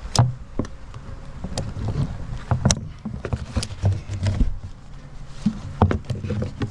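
Wooden beehive boxes and frames being handled: a string of short knocks and bumps.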